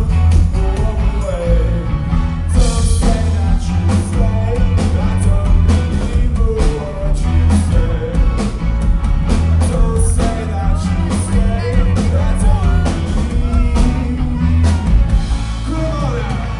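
A rock band playing live: drum kit, bass and guitars with a sung vocal line, recorded loud from the audience.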